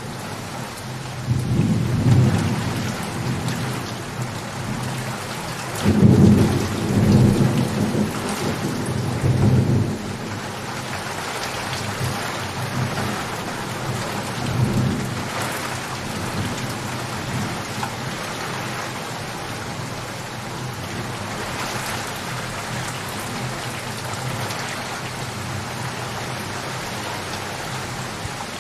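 Steady rain falling, with rolls of thunder: a rumble about two seconds in, a louder and longer one from about six to ten seconds in, and a fainter one near halfway. After that, rain alone.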